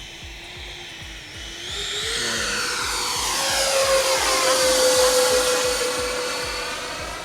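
Twin 80mm electric ducted fans of a Freewing MiG-29 RC jet whining as it passes low and close on approach under power. The whine swells from about two seconds in, is loudest around two-thirds of the way through, then fades, with a steady beat of background music underneath.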